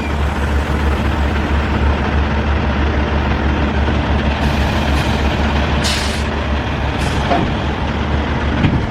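Semi-truck engine running steadily, heard from inside the cab, with a short air-brake hiss about six seconds in and a fainter one a second later.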